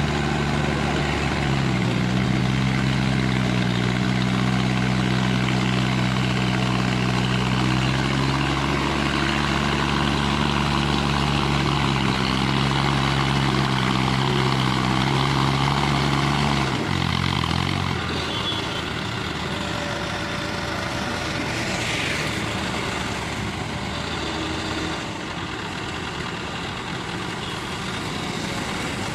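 Hindustan 60 tractor's diesel engine running steadily with a deep, even note; a little over halfway through the low note drops away and the engine sound becomes quieter.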